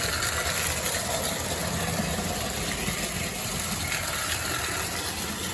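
Marx 898 O-scale toy steam locomotive running on its track, its electric motor and gears giving a steady whirring rumble. It runs again after its mechanism was cleaned.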